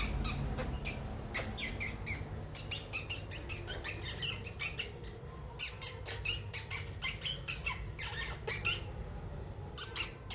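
Young cockatiel chirping: many short, high-pitched squeaky calls in quick series, with brief pauses about five seconds in and again near the end.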